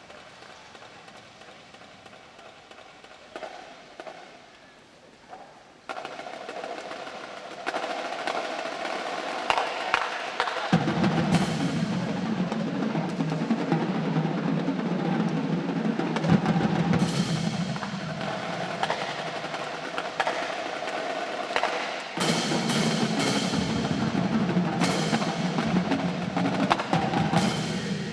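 Marching drum line playing: snare drums with rolls over bass drums. It is quiet for the first few seconds, turns loud about six seconds in, and the heavy low drums join about eleven seconds in, with bright crashes through the rest.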